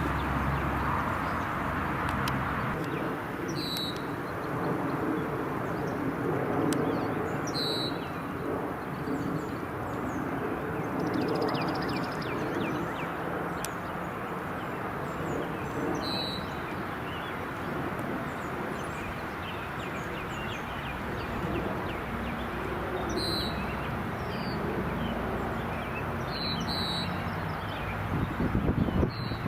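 A bird giving short, high chirps every few seconds over a steady outdoor background noise.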